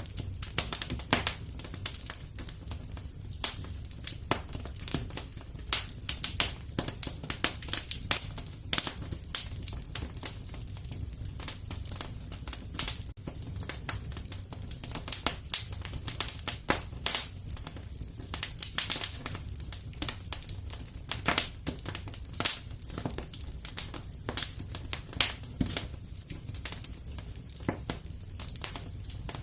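Fireplace wood fire crackling: irregular sharp pops and snaps, several a second, over a low steady rumble.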